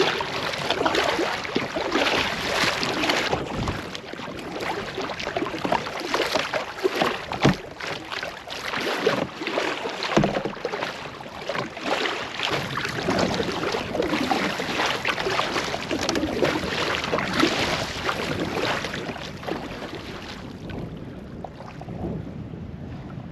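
Canoe being paddled across a lake: water splashing and swishing with the paddle strokes and against the hull, a few knocks, and wind buffeting the microphone. It grows quieter near the end.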